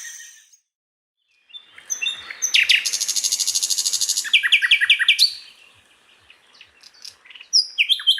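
Common nightingale singing: a fast trill of rapidly repeated high notes, then a string of short down-slurred whistles, a quieter pause, and another phrase of repeated notes near the end.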